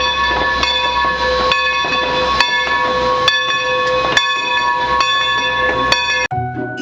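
Train whistle sounding a steady chord of several notes, with a sharp clack about once a second.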